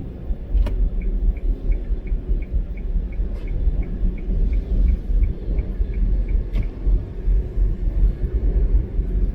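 Car driving on a wet road, a steady low rumble throughout. A quick, regular ticking, about three ticks a second, runs for several seconds and stops, with a few sharp knocks.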